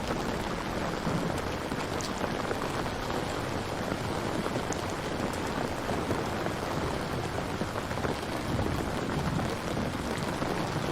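Steady rain falling, a dense patter of drops with a low rumble beneath.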